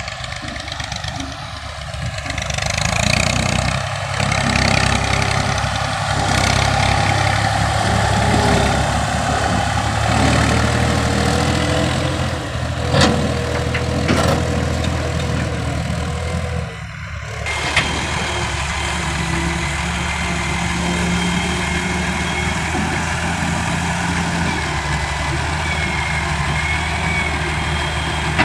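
Tractor diesel engine running, getting louder about three seconds in, with a sharp knock about midway and a brief dip before it runs on steadily.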